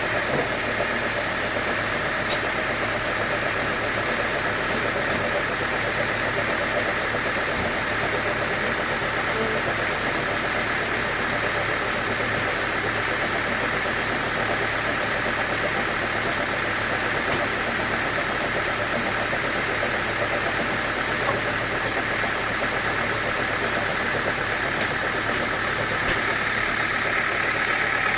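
Sawmill machinery running steadily: a constant mechanical drone with a low hum and a strong mid-high whine, unbroken throughout and rising slightly in level near the end.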